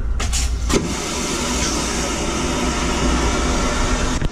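Passenger train running, heard from inside: a steady loud rumble and rushing noise, with two sharp knocks about a quarter and three quarters of a second in.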